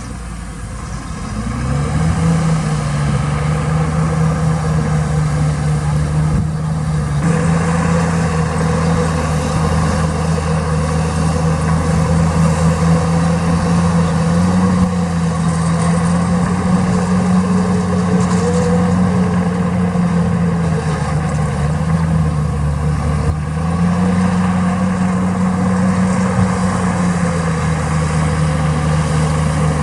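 Heavy diesel engine of earthmoving equipment running close by. It builds up over the first two seconds, then holds a steady note, with the engine speed stepping up and back down a few times.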